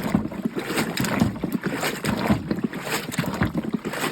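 Water sloshing and splashing inside a LAVARIO hand-powered washing machine as its basket agitator is lifted and let drop to wash a load of clothes, in repeated strokes about two to three a second.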